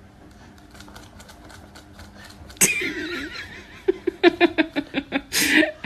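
A sudden sharp sound about two and a half seconds in, then a person laughing in quick bursts, about six a second.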